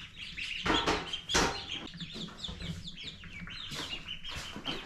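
Chickens clucking with many short, high chirping calls throughout, and two brief knocks about a second in.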